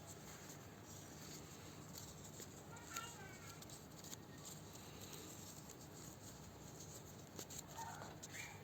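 Faint rustling and soft clicks of origami paper being handled and creased, with a brief high squeak about three seconds in.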